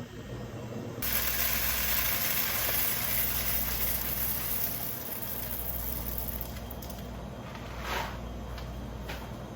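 A loud hiss starts suddenly about a second in and slowly fades away, with a few clicks near the end.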